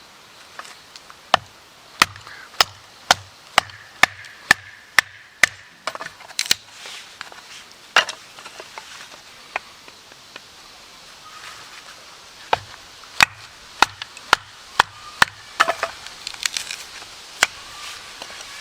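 Repeated sharp knocks with a dull thump under each, coming in even runs of about two strikes a second: one run a couple of seconds in, and another in the second half. Scattered single knocks fall in between.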